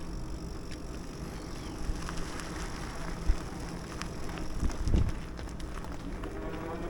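Riding a bicycle on a paved path: steady wind and tyre noise, with scattered light clicks and a low thump about three seconds in. A faint humming tone comes in near the end.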